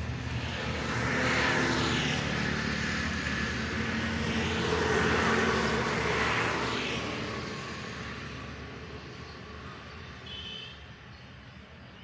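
Road traffic: vehicle engines and tyre noise on a road, swelling twice as vehicles pass and then fading away, with a brief high chirp about ten seconds in.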